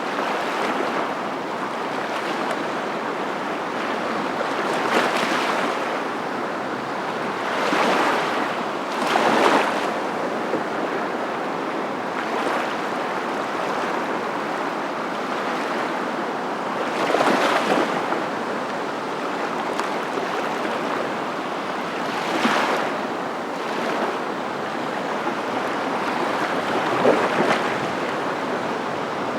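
Ocean surf: a steady rush of waves, swelling louder briefly every few seconds as waves break.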